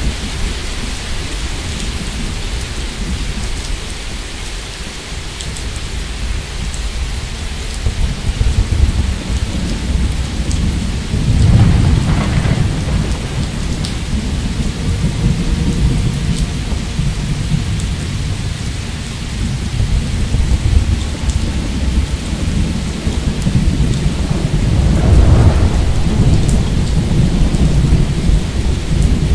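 Thunderstorm: steady rain hissing with thunder rumbling underneath. The thunder swells into two louder peals, one near the middle and one toward the end.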